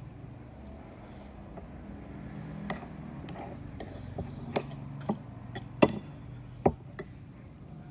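Irregular sharp clicks and knocks, about a dozen, scattered over a low steady background, the loudest two coming a little after the middle and shortly before the end.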